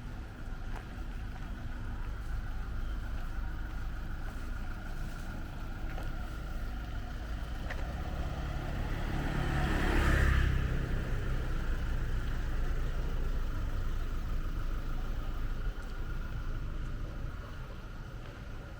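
A car passing close by on a city street, its sound building to a peak about ten seconds in and then fading, over a steady low rumble of traffic.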